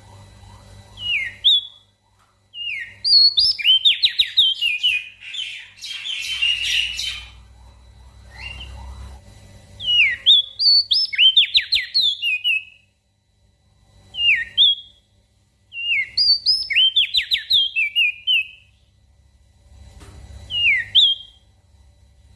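A small songbird singing a repeated phrase of clear whistles: a sharp down-slurred note, then a quick run of short chirping notes. The phrase comes about six times, separated by short pauses, over a faint low hum.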